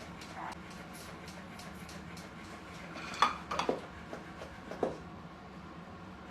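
Parrots batting toys about, making light clinks and rattles: a quick cluster about three seconds in and another near five seconds, over a steady low hum.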